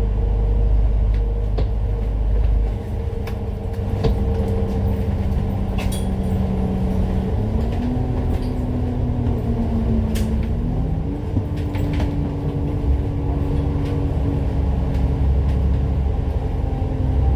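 Citybus bus engine and drivetrain heard from on board, running with a steady drone and a deep rumble. The engine note climbs in steps between about seven and eleven seconds in, and a few sharp rattles and clicks come through.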